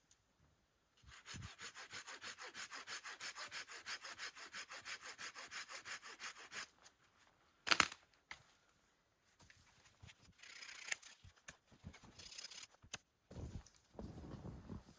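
A hand saw cutting through wood in fast, even strokes for about five seconds, followed by a single sharp knock.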